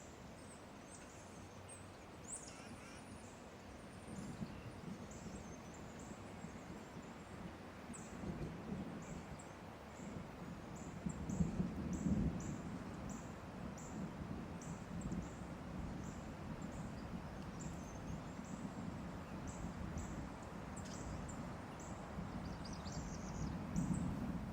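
Wild turkey gobbler gobbling in the distance, swelling loudest about halfway through and again near the end, over a steady series of thin high chirps.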